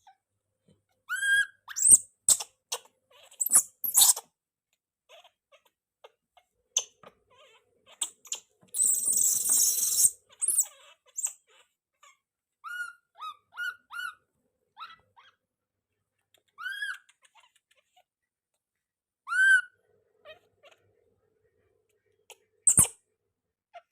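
Baby monkey giving a string of short, high squeaking calls, each rising and falling in pitch, scattered among clicks and knocks. About nine seconds in, a hissing noise lasts for roughly a second and a half.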